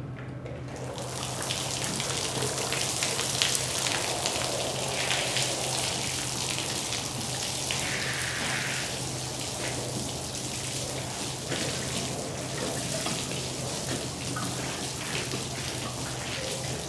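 Water spraying hard onto a rug, a dense steady hiss starting about a second in, over a constant low machine hum.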